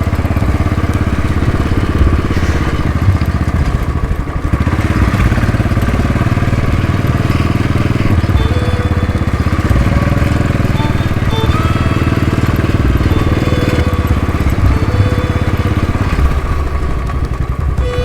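Motorcycle engine running steadily under way, a fast even low pulse from the exhaust as the bike rides along.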